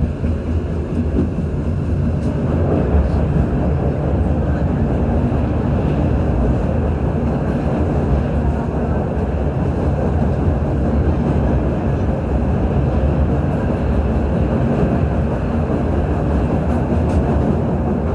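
Passenger train running along the track, heard from on board: a steady low rumble of wheels on rails that grows a little louder about two and a half seconds in.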